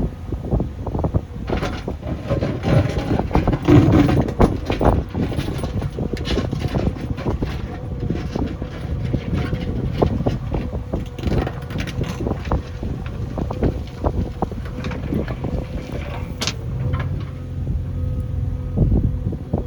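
JCB backhoe loader's diesel engine running steadily, with frequent knocks and clatter from the machine at work.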